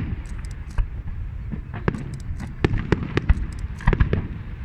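Fireworks display: a rapid, irregular run of bangs and crackling reports, several a second, over a continuous low rumble.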